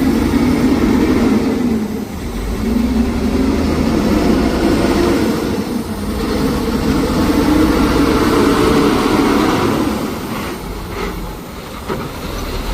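Cat C13 diesel engine of a sewer vacuum truck revved up and let back down about three times. It then settles to a lower, quieter idle near the end.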